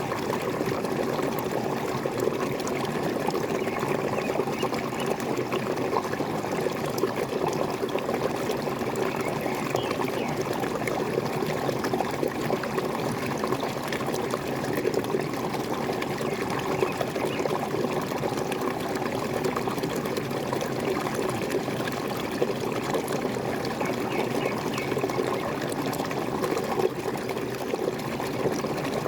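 Waterfall: water pouring and splashing steadily, an even rushing with a gurgle in it.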